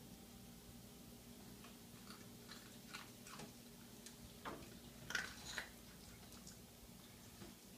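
Faint scattered ticks and soft wet smacking sounds, loudest in a quick cluster about five seconds in, over a low steady hum.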